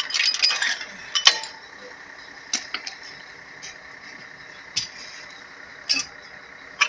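Metal clinking: a short clatter, then single sharp metal-on-metal clinks about every one to two seconds, as removed engine cylinder liners and tools are handled.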